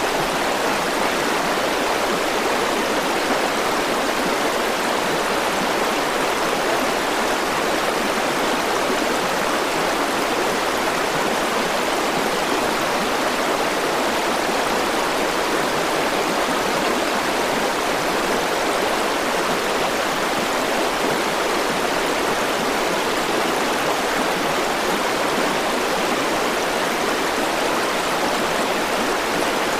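A river flowing over rocks: a steady, even rush of water.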